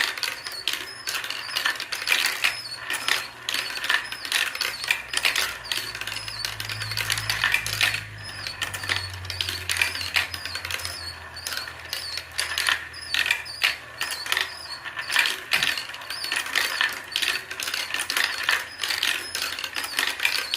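Marbles clicking and rattling along a toy marble run with a motorized auto-loading ladder, in quick irregular clicks. A low hum comes in for a few seconds midway.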